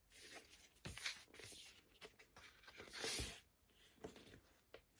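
Faint rustling and sliding of a vinyl LP's cardboard sleeve and paper inner being handled, in irregular bursts with a couple of soft knocks, the loudest about three seconds in.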